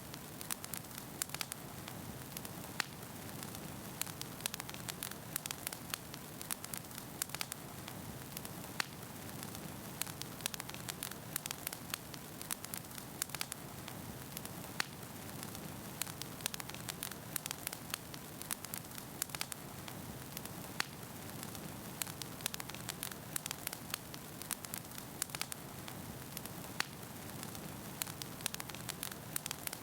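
Wood fire burning in a fireplace, with a steady low rush of flame and frequent sharp, irregular pops and crackles from the burning logs.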